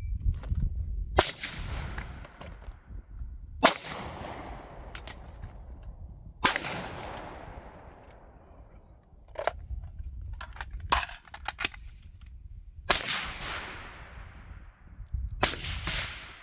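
Five shots from a suppressed firearm, spread unevenly across the stretch, each followed by a long fading echo, with a few fainter sharp clicks between them.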